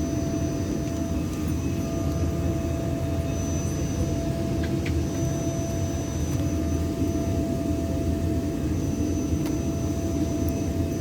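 Steady airliner cabin noise heard from a passenger seat: a constant low rumble with a thin, unchanging whine over it.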